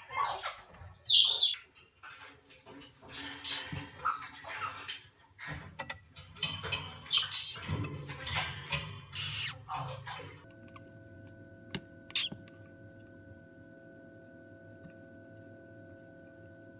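Moluccan cockatoo chicks squawking and chirping in short, rasping bursts, mixed with small scuffling clicks. About two-thirds of the way through the calls stop and a steady hum of held tones takes over, with one more short squawk soon after.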